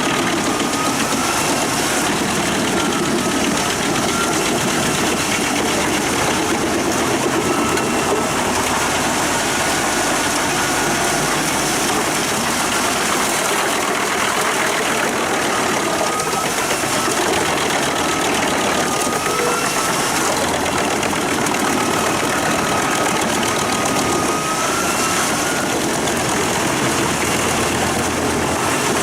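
Pezzolato PTH 1200/1000 G drum wood chipper running under load behind a Claas Xerion 5000 tractor, its steel blades cutting wood into chips. The result is a loud, steady mix of engine noise and chipping, with a thin wavering screech that comes and goes.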